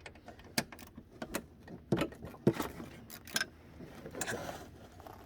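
Irregular metallic clicks and clinks of a hand wrench working loose the lower engine mount bolts on a snowmobile, about eight sharp taps spread unevenly across a few seconds.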